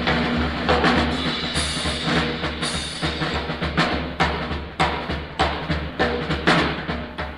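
Live 1940s bebop jazz with the drum kit to the fore: quick snare and bass drum hits over cymbals, on an old concert recording with a low background hum.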